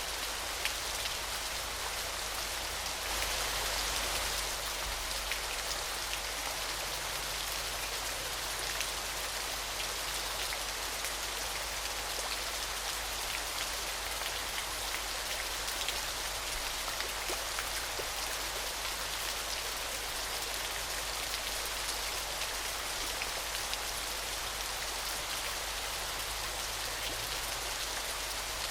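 Steady hiss of falling water splashing down in many drops, with scattered small ticks, a little louder about three to four seconds in.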